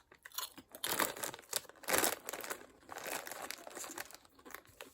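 Plastic snack bag of Doritos 3D crinkling as it is handled: a run of irregular rustles, busiest about two seconds in.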